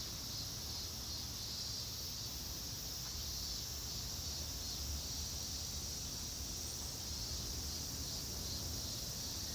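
Steady, unbroken chorus of insects such as crickets, several high-pitched layers running together over a low rumble.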